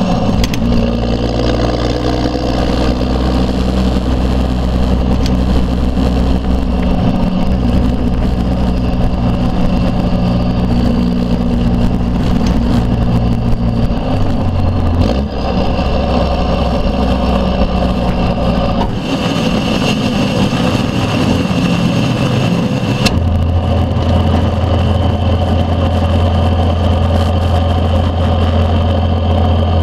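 Straight-piped 12-valve Cummins 5.9 L inline-six turbo diesel running under way, its low exhaust note shifting as the speed changes. A high turbo whistle sounds for a few seconds past the middle and cuts off suddenly, leaving a deeper, steadier drone.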